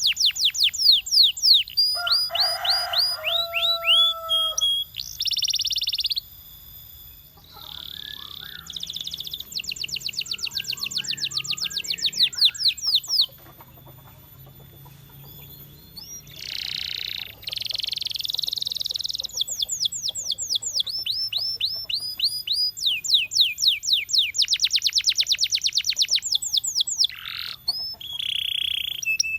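Canary singing: phrases of fast, evenly repeated high notes, each phrase lasting a few seconds, with short pauses between them.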